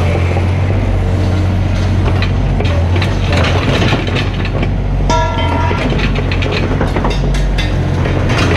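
Mini excavator's diesel engine running steadily under load, with scraping and knocking from the bucket working the ground. A brief high squeal comes about five seconds in.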